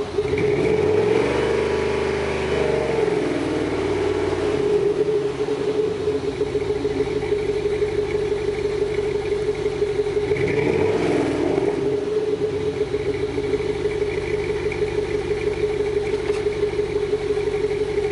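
2006 Chevy Monte Carlo SS's 5.3-litre V8 idling with a pulsing exhaust note through Thrush Welded mufflers with the resonators deleted. The throttle is blipped twice, once near the start and once about halfway through, each rev rising and falling back to idle.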